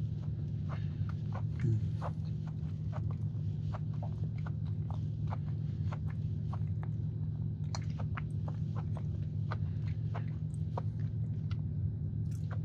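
Close-up chewing of soft cheesecake: irregular wet mouth clicks and smacks over a steady low hum. A short falling hum-like sound comes about two seconds in.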